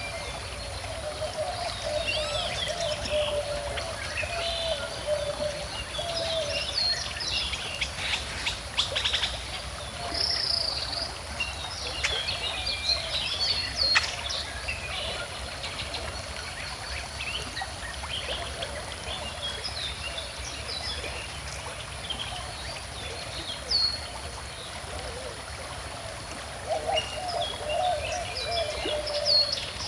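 Many birds chirping and singing over the steady rush of a gently flowing river. A few short sharp clicks stand out about nine and fourteen seconds in.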